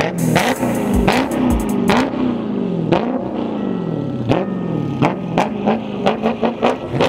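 Dodge HEMI V8 revved again and again, its note climbing and falling back about once a second, under a run of sharp beats.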